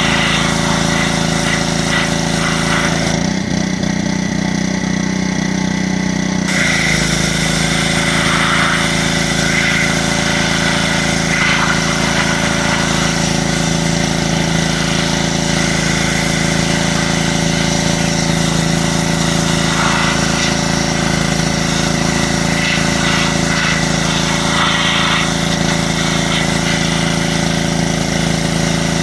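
Pressure washer running steadily, its small engine droning under the hiss of the water spray. The spray hiss drops away for about three seconds near the start, then resumes.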